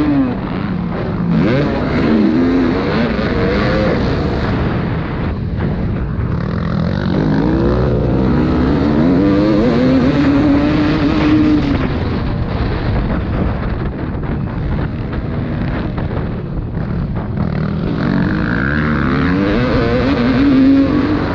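Several motocross bikes racing, their engines revving up and falling back over and over as they accelerate and shift gears, the pitches overlapping.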